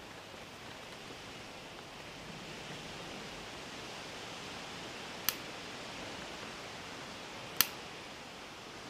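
Steady hiss of quiet room tone, broken twice by a sharp click a little over two seconds apart, the second click louder.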